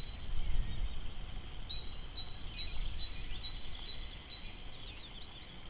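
Great tit singing a repeated two-note phrase about twice a second, with other small birds calling near the end, over a low rumble of wind on the microphone.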